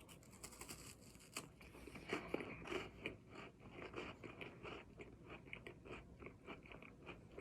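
A person chewing a mouthful of crunchy Nesquik cereal, a faint, quick, even run of crunches, about three or four a second.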